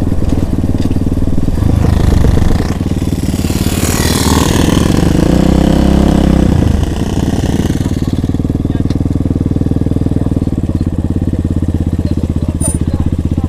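Motorcycle engine running steadily, with a louder stretch between about three and seven seconds in that swells and falls away.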